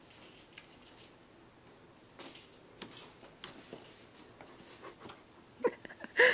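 Cats moving about in a firetruck: light scattered rustling and tapping, then two short louder sounds near the end, the first with a brief pitched note.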